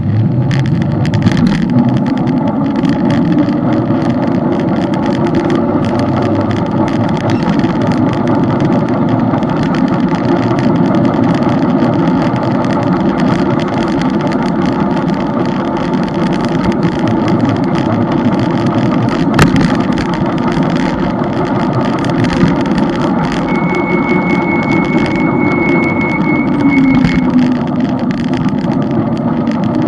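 Motorcycle engine running under way, its pitch rising and falling with speed, with wind buffeting the microphone. A thin high whistle sounds for a few seconds about 23 seconds in.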